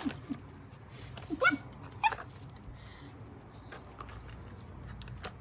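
A dog yelping: a few short, rising cries, the loudest about a second and a half in.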